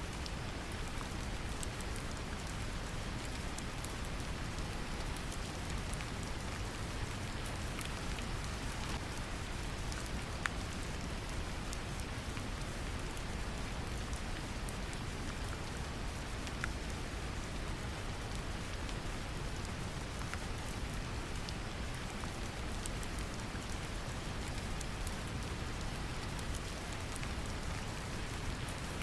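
Steady rain pattering, mixed with a deep, even brown noise rumble. Scattered single drops tick now and then over the hiss.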